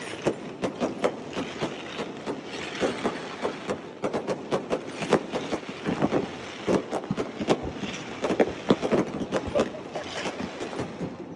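Fireworks going off: a quick, irregular run of sharp bangs and crackles that never lets up.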